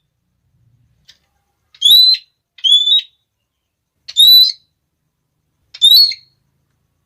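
Red-cheeked parrot calling: four short, loud, shrill notes, each sliding quickly upward, spaced a second or two apart with silence between them.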